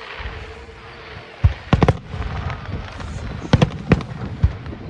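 Aerial fireworks shells bursting overhead: a series of sharp bangs starting about a second and a half in, some in quick pairs, over a low rumble of further bursts.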